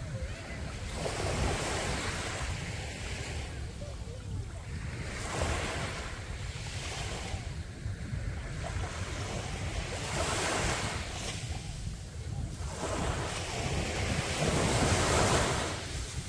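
Sea waves breaking and washing up a beach, a fresh surge every two to three seconds, over a steady low wind rumble on the microphone.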